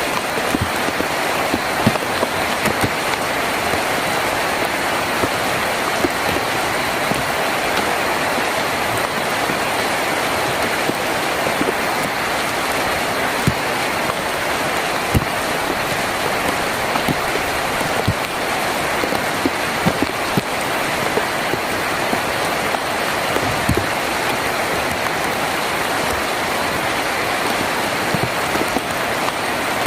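Heavy rain falling on a tin roof: a steady, dense hiss with many sharp individual drop hits scattered through it.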